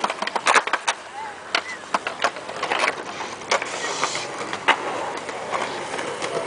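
Skatepark activity: skateboard and BMX wheels rolling on concrete, with many short sharp clacks and knocks from boards and bikes striking the pool edges and deck.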